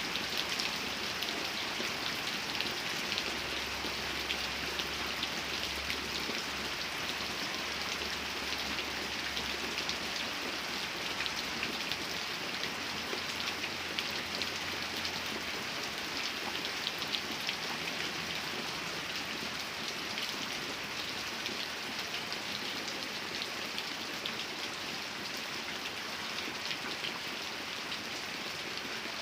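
Steady rain falling, an even hiss with many small drops pattering on a surface. A faint low rumble comes in a few seconds in and fades out after about seven seconds.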